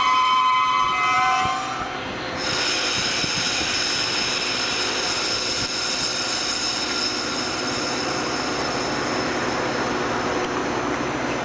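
Metra commuter train of bilevel gallery cars rolling past, steel wheels rumbling on the rails. A chord of high squealing tones fades out about a second and a half in, and after a brief dip a steady, higher-pitched wheel squeal carries on over the rolling noise.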